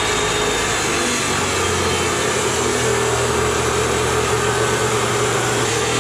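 Power cutting tool running steadily as it cuts through a piece of metal for a support bracket.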